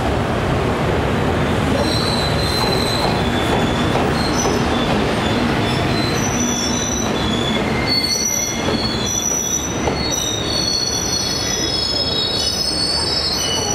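A train hauled by an electric locomotive rolling through a station with a steady rumble. From about two seconds in, its wheels squeal on the rails in several high, shifting tones that grow more frequent near the end.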